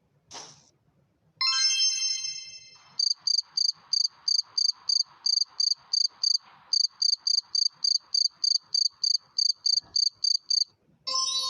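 A brief ringing tone, then a cricket chirping in an even pulse of short, high-pitched chirps, about three to four a second.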